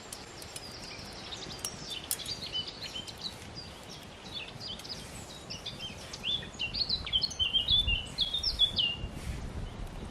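Songbird singing outdoors: a run of short, high chirps that grows busier and louder in the second half, over a faint steady background hiss.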